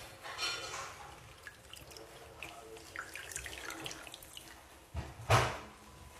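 Faint water dripping with small handling sounds, then a louder thump about five seconds in.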